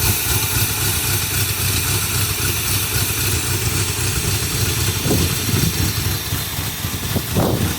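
Car engine running steadily at a fast idle on a little held throttle, a vehicle engine that has not been started in a long time and has just come to life.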